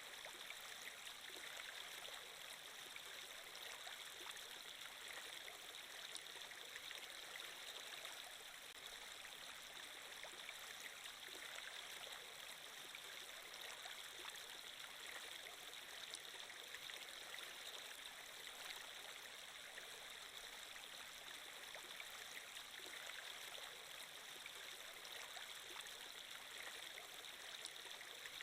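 Flowing-water ambience like a small stream: a steady, even rush with fine trickling detail and no change throughout.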